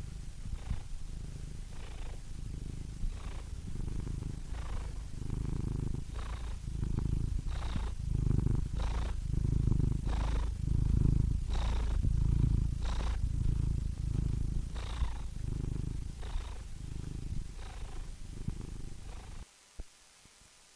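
Domestic cat purring, a steady low rumble that swells and fades with each breath, about one breath every second and a half. It stops abruptly near the end.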